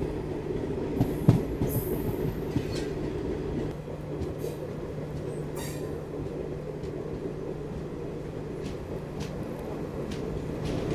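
Garib Rath Express coaches running along the track: a steady rumble with a low hum and scattered wheel clicks, heard from the side of the train. It gets a little louder near the end as the train enters a tunnel.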